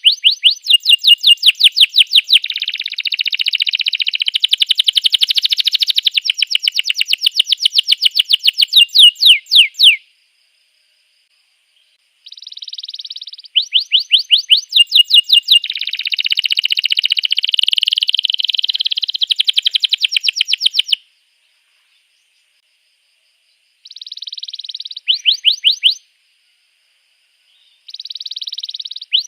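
Domestic canary singing: bouts of rapid repeated chirps, several a second, that run into dense rolling trills. The bouts are several seconds long and broken by short silences, with the song starting up again twice near the end.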